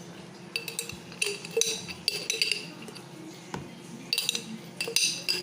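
A spoon clinking and scraping against a pot while pasta, vegetables and creamy mushroom sauce are stirred together: a run of quick ringing clinks, a pause in the middle, then more clinks near the end.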